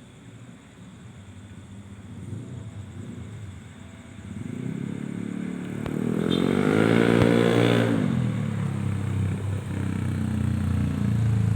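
Motor vehicle engine running, growing louder from about four seconds in. The pitch rises and falls at its loudest, about six to eight seconds in, and it then settles into a steady hum.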